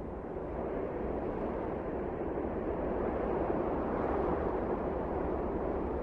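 Wind blowing in a steady, low rush that swells a little in the first second or so, then holds.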